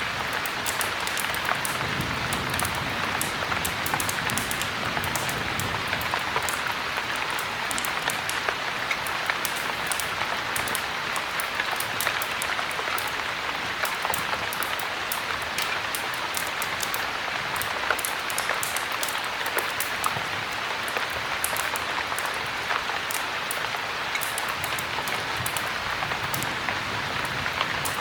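Steady heavy rain, with many small sharp crackles from a wood fire in a fireplace scattered throughout.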